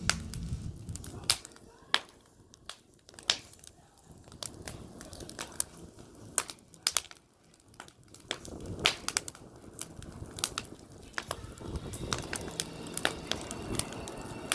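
Wood campfire crackling, with irregular sharp pops and snaps over a low hiss.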